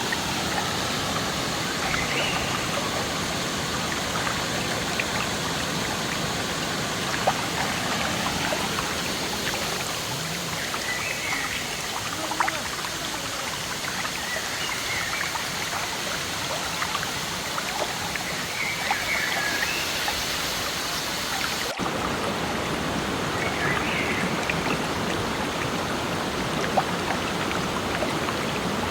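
Steady running water, like a stream, with a very brief dropout about three-quarters of the way through.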